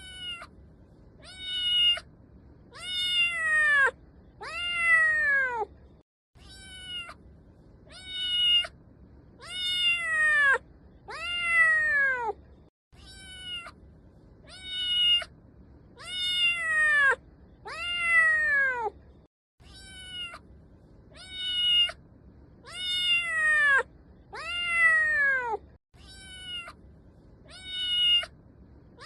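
Domestic cat meowing: a run of four meows, each bending up and then falling in pitch, the later ones longer. The same run repeats about every six and a half seconds, as a looped recording.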